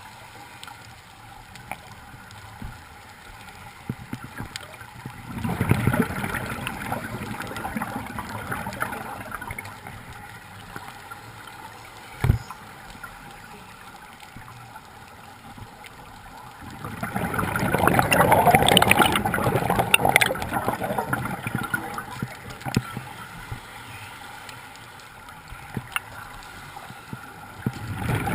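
Water gurgling in two long surges of about five seconds each, with a single sharp knock in between.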